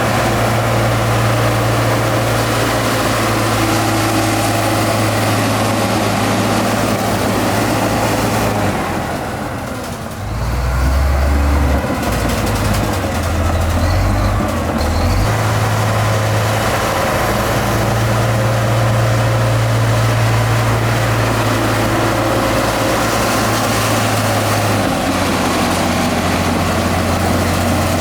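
Heavy diesel construction machinery running steadily, with a short dip about a third of the way in and shifting engine pitch for a few seconds after it.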